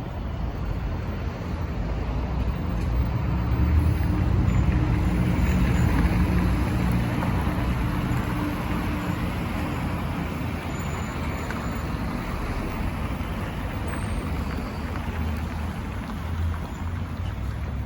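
Road traffic: a motor vehicle's engine passing, loudest about four to six seconds in, over a steady hum of city traffic.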